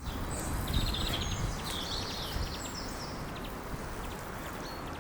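Small birds singing in quick chirps and trills, busiest in the first three seconds, over a steady low rumble of outdoor background noise.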